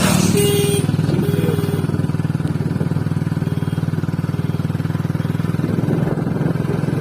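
Motorcycle engine running steadily while riding. Near the start there is a brief higher tone over it.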